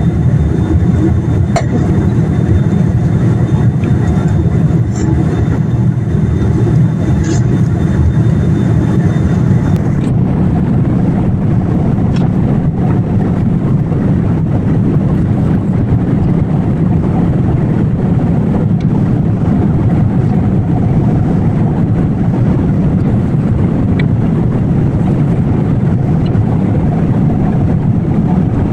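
Steady low cabin noise of a Boeing 787 in flight: engine and airflow noise heard from inside the passenger cabin. The higher hiss thins out about ten seconds in.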